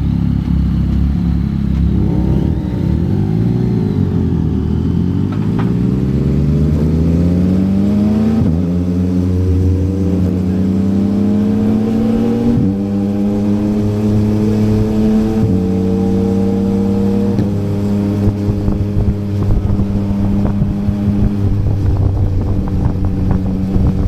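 Yamaha MT-09's three-cylinder engine through a Yoshimura R11 exhaust, pulling away with its note rising steadily for several seconds. It then holds at a few steady pitches that change abruptly as it shifts gear, and settles into a steady cruise.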